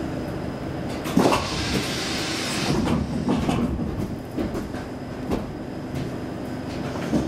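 Saltsjöbanan C10/C11 commuter train heard from inside the car while running on the rails: a steady rolling noise with irregular knocks and clatter from the wheels, the sharpest about a second in and a cluster a few seconds later.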